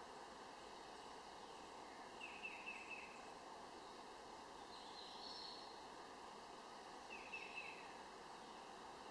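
Faint outdoor background hiss with a bird calling twice, each call a quick run of about four short descending chirps, a couple of seconds in and again later on.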